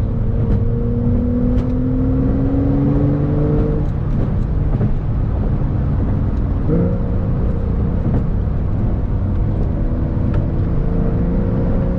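Porsche 911 Carrera 4 GTS twin-turbo flat-six engine pulling under acceleration, over low road and tyre rumble. Its pitch climbs steadily for about four seconds, drops at a gear change, jumps sharply in revs about seven seconds in, then climbs again near the end.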